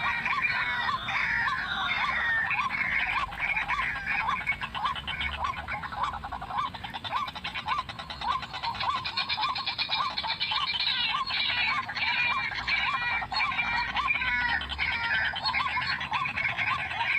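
White-breasted waterhen (ruak-ruak) calling: short rising notes repeated about twice a second, over a dense chatter of overlapping calls.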